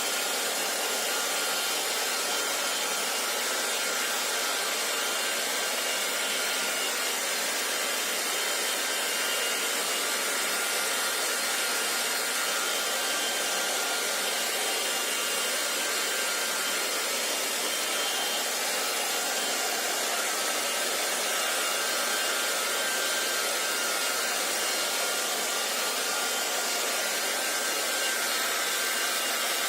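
Hair dryer running steadily: an even rush of blown air with a faint, steady high whine in it, unchanging throughout.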